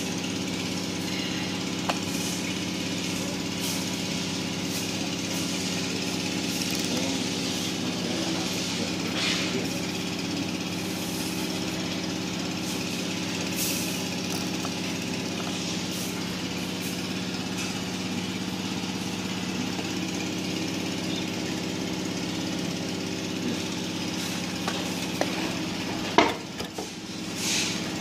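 DAIHO DSG-8000 Pro diesel silent generator running with a steady, even engine hum, with a few light clicks and one sharp knock near the end.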